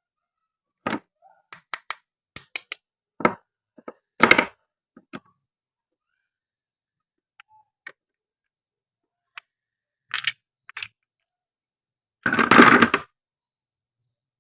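Short, sharp clicks and knocks of toy fruit pieces and a toy knife on a cutting board, a dozen or so scattered hits with silence between, then a louder rasping noise lasting under a second near the end.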